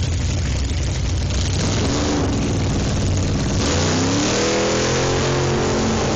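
1956 Chevrolet drag car's engine revving hard. The revs rise briefly about two seconds in, then climb again near four seconds and hold high.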